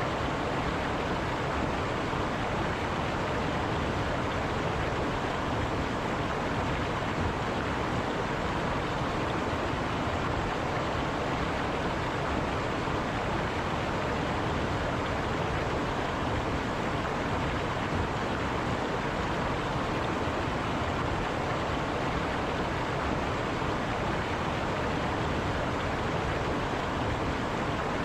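Forest river running over rocks: a steady, even rush of water.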